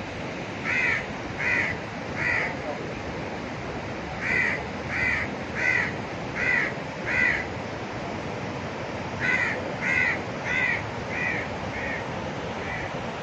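A bird calling in three runs of short, evenly spaced calls, about one and a half a second, the last run fading away, over a steady rushing noise.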